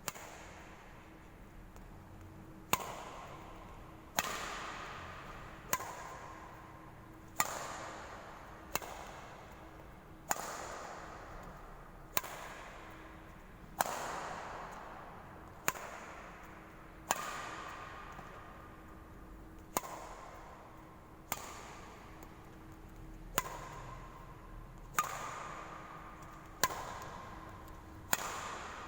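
Badminton racket strings hitting a shuttlecock again and again in a drill, a sharp crack about every one and a half seconds, each ringing on in the echo of a large hall.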